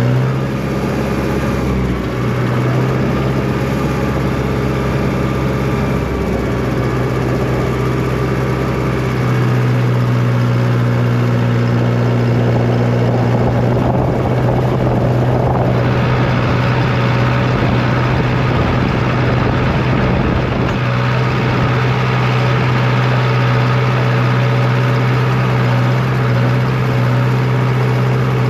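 International tractor engine running steadily at about 1700 RPM while mowing grass.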